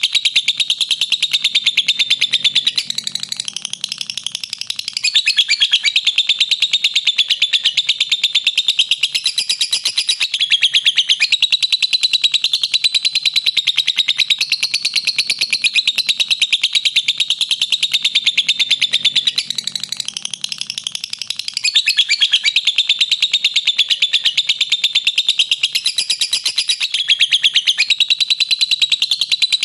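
Lovebird giving its long, rapid chattering call (ngekek): a dense, nearly unbroken stream of fast, high, shrill notes that slackens briefly twice.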